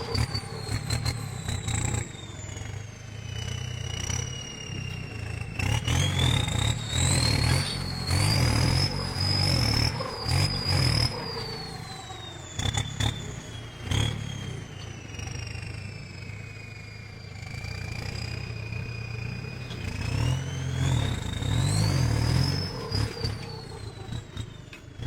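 Tractor diesel engine labouring under heavy load as it strains to uproot a tree, revving up about six seconds in and again near the end and sagging in between. A high whine rises and falls with the revs, over scattered clanks and knocks.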